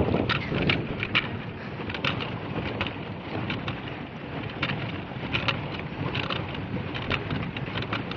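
Water splashing and spattering from a pedal boat's paddle wheel churning the pond, in quick irregular spatters over a low rumble.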